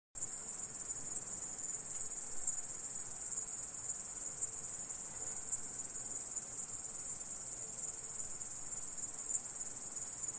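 Grasshopper stridulating: a continuous, unbroken high-pitched buzzing trill that starts abruptly and cuts off suddenly about ten seconds later.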